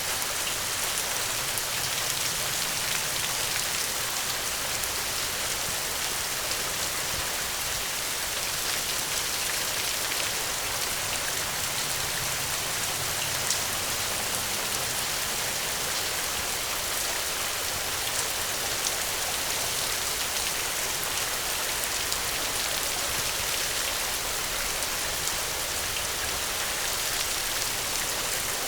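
Steady, heavy rain falling and pattering on a surface as an even hiss, with a few isolated sharp ticks.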